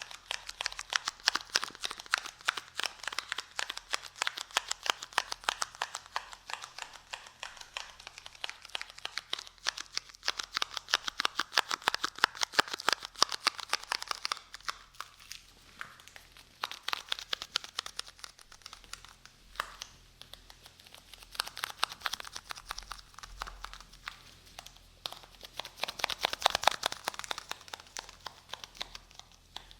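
Adhesive tape handled and peeled close to the microphone: dense, rapid sticky crackling and crinkling that comes in waves, with a few brief lulls.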